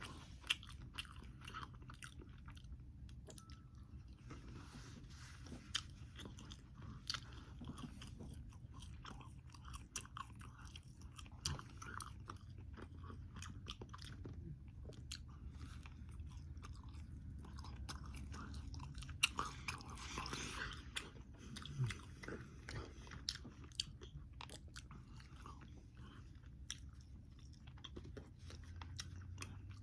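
Close-up chewing and biting of crispy air-fried bacon, with many small crunches. A louder stretch of crunching comes about two-thirds of the way in.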